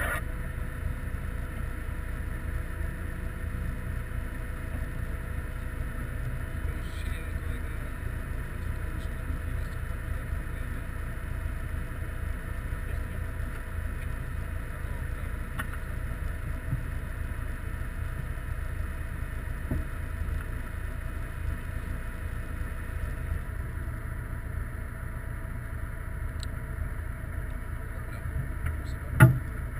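Ariel Atom's engine idling steadily while the car stands still, a low even rumble, with one brief louder thump near the end.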